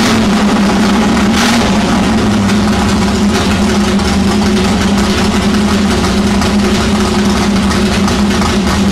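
370 cubic inch Windsor V8 with twin carburettors, freshly built and on its first start, running at a steady idle with an even, unchanging note.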